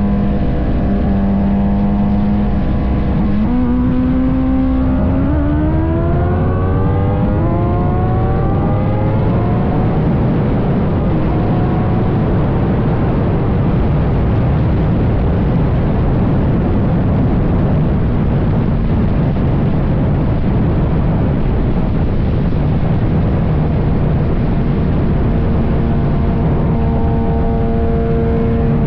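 Sport motorcycle engine pulling hard, its pitch climbing steadily through the revs, then running at speed under a loud, even rushing noise, with the engine note coming through again near the end.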